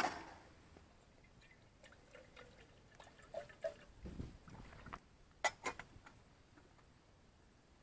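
Quiet scattered handling sounds: light clicks and knocks, with a short low rumble about four seconds in and a pair of sharper clicks a little after five seconds.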